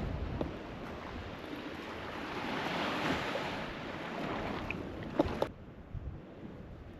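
Ocean surf rushing against the shore, swelling about three seconds in and then easing, with wind on the microphone. Near the five-second mark there are two short knocks, and the sound drops off suddenly just after.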